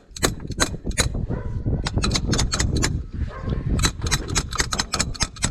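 A fast run of sharp metallic clicks and clinks from hand tools, several a second.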